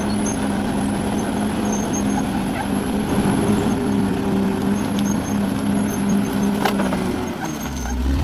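Bulldozer engine running steadily at a constant pitch, with a deeper low rumble coming in near the end.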